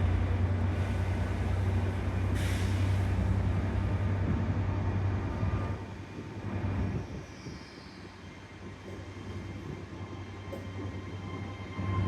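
Transport for Wales Class 82 train pulling out of the station: a steady low rumble that drops back about six seconds in, then carries on quieter as the train moves away.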